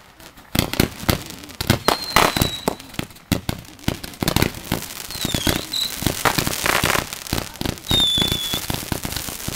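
Consumer fireworks going off in quick succession: dense popping and crackling of firecrackers and small bursts, thickening after about four seconds. Three short high whistles sound through it.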